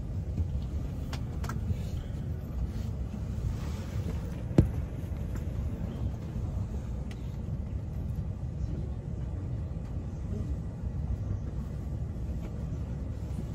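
Steady low rumble inside a JR East commuter train's Green Car, with one sharp knock about four and a half seconds in.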